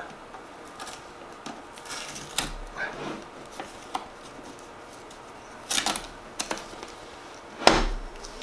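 Packing tape being pulled off a new Keurig K-Supreme Plus coffee maker and its plastic parts handled: scattered clicks and rustles, with two louder, longer sounds about six and eight seconds in.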